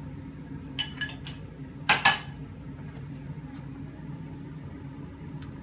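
A utensil clinking against a bowl or pan, a few sharp clinks about a second in and a louder pair about two seconds in, then only faint ticks, over a steady low hum.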